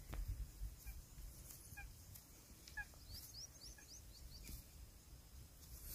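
Faint bird calls: short pitched notes about once a second, then a quick run of five high rising chirps about halfway through.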